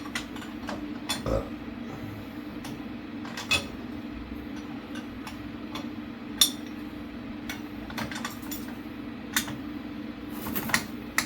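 Scattered light metal clinks and taps of tools and axle parts being handled, over a steady low hum.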